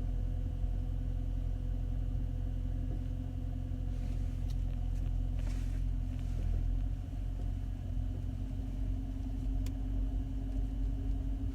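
Steady low mechanical rumble with a constant hum, like a motor running, and a few faint ticks.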